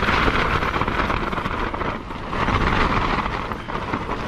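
Strong storm wind gusting and buffeting the microphone, with a heavy low rumble; the gust eases briefly about two seconds in, then surges again.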